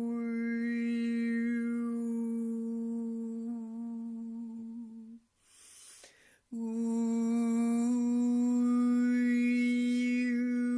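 A man's voice humming or toning one long held low note for meditation, its overtones gliding up and down as the mouth shape changes. About halfway through it breaks off for an audible breath, then takes up the same note again.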